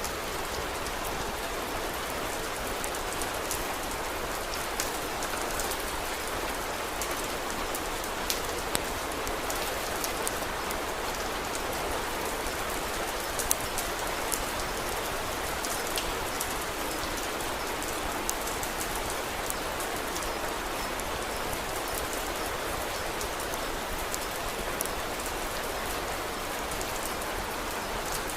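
Steady rain falling, an even hiss with a few sharp clicks and pops scattered through it, the loudest about halfway through.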